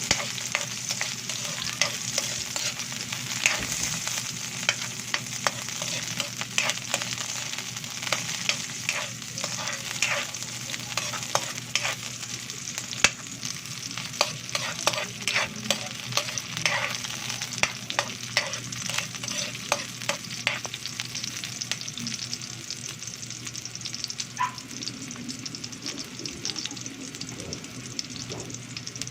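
Chopped red onion and garlic sizzling in hot oil in a cooking pot, with a utensil clicking and scraping against the pot as they are stirred.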